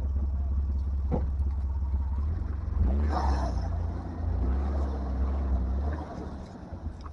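Off-road 4x4 engine running with a low rumble, revving up about three seconds in as it crawls over rock, then easing off near the end.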